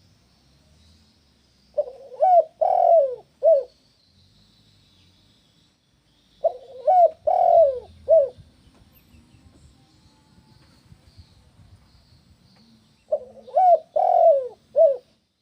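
Spotted dove cooing its song three times, each phrase a quick run of about four notes. A faint high chirping runs in the background.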